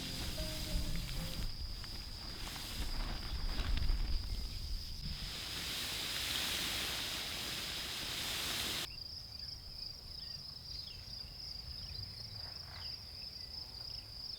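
Outdoor ambience with an insect trilling on one steady high note. A soft hiss swells in the middle and stops abruptly about nine seconds in, after which the trill pulses several times a second.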